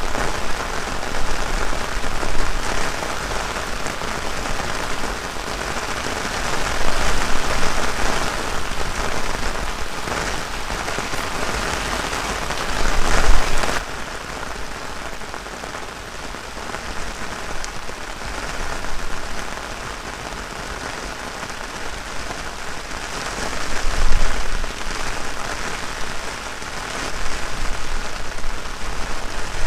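Heavy rain falling steadily, with gusts of strong wind buffeting the microphone, loudest about 13 and 24 seconds in. About halfway through the sound turns abruptly duller.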